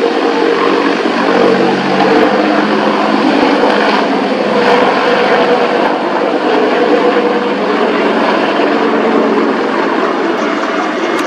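Taiwan Army AH-64E Apache attack helicopter flying, its rotors and turbine engines making a loud, steady whine and roar.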